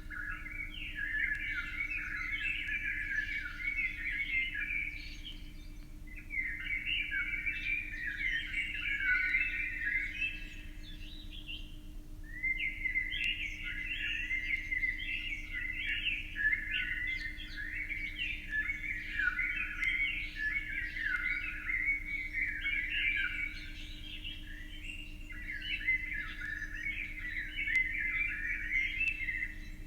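Birds chirping in a dense, continuous chatter of quick high notes, with short lulls about six and twelve seconds in. A faint steady hum lies underneath.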